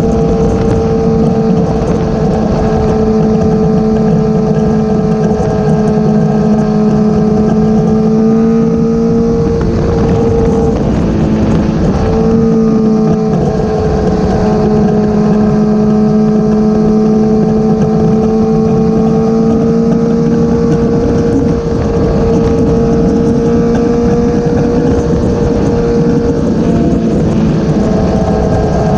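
Motorcycle engine running at a steady cruising speed while riding, with wind rushing over the microphone. The engine note wavers and briefly breaks about ten seconds in, then settles back to a steady pitch.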